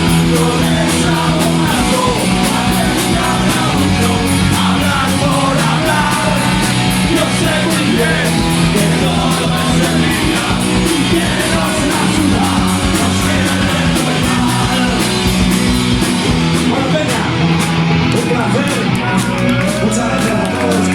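Live punk rock band playing loud and steady, with drums, bass and guitar under shouted singing.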